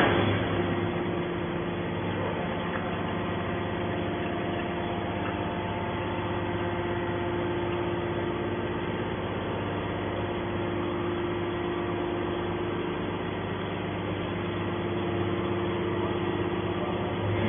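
Hydraulic scrap metal baler press running: a steady machine hum from its motor and hydraulic pump, with a few constant tones.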